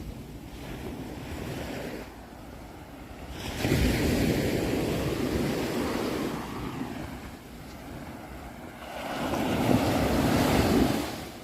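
Ocean waves breaking on a shore: two loud surges of surf, one about three and a half seconds in and another near the end, each washing up and fading away.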